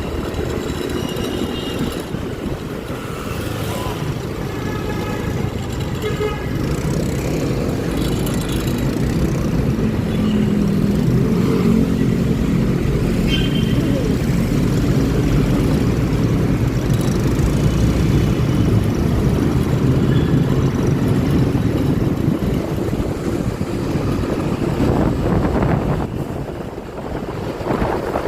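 Riding noise from a Honda Click 125i scooter moving through city traffic: its single-cylinder engine and road noise making a steady low rumble, with vehicle horns tooting several times in the first nine seconds or so. The rumble grows louder from about ten seconds in.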